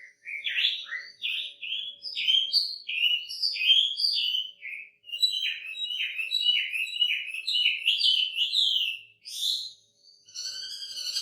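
Chinese hwamei (wambi) singing a fast string of loud, slurred whistled notes that ends in a rising note. After a brief pause near the end, a steady, buzzy note made of several layered tones begins, part of the bird's mimicked repertoire.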